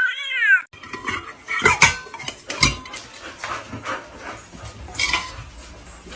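A cat's long wavering meow, cut off under a second in, followed by scattered sharp clicks and knocks over a low rumble.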